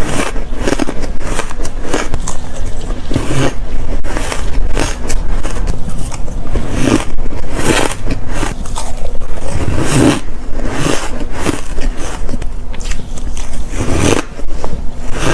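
Ice being bitten and crunched close to the microphone: a string of crisp crunches, about one or two a second, unevenly spaced.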